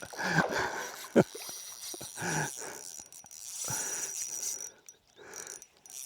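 A man's short breathy grunts and exhalations, about five of them a second or so apart, over a faint steady high-pitched tone.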